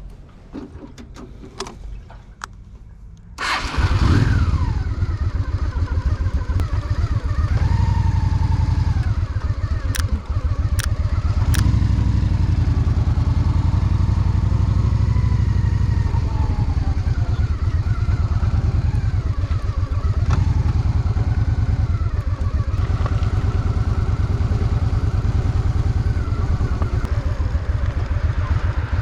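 A Honda Shadow VT750's V-twin engine starting up: a few clicks, then the engine fires about three and a half seconds in and runs steadily with a low, even pulsing.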